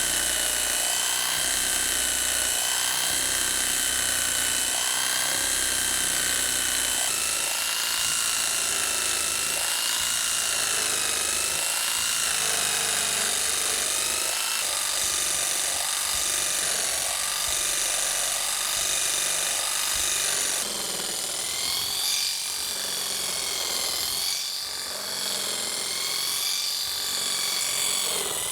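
Electric motor of a handheld rug-making tool running with a steady high whine. Its pitch wavers and steps to new levels several times, and the sound changes and drops a little past two-thirds of the way through.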